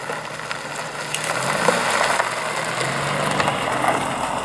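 A car's engine running as it rolls slowly past, its note rising briefly about a second and a half in, the sound swelling toward the middle and then easing off.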